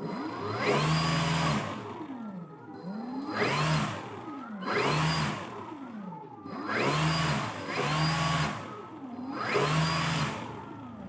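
Electric RC airplane motors revved up and back down about six times, each run a whine that rises, holds for a moment and falls away, as in a throttle test.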